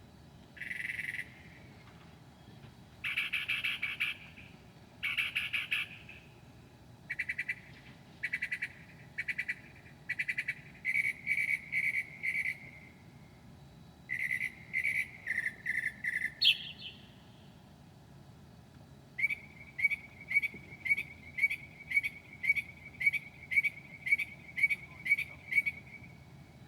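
Northern mockingbird singing a string of borrowed phrases, each note or trill repeated several times with short pauses between. About twelve seconds in comes a quick trill imitating a cricket, and over the last seven seconds a steady run of short notes, about two a second, which the recordist takes for a frog imitation.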